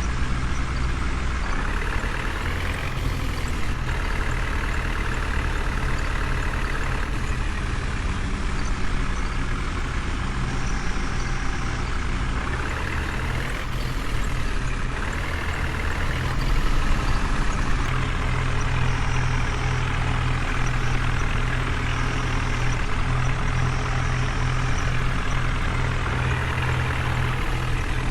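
Heavy diesel engine running steadily with a deep drone, briefly revving up and back down twice.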